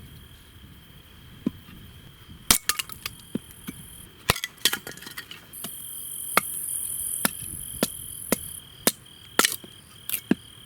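Wood being chopped into kindling chips: a string of sharp chopping strikes at uneven intervals, some in quick pairs, mostly from about two and a half seconds in.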